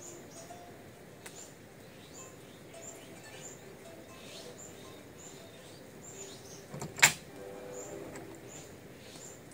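A small bird chirping over and over, short high notes about one every 0.7 seconds. About seven seconds in comes a single sharp knock, the loudest sound, as the table saw's metal rip fence is worked against the plywood sheet. The saw itself is not running.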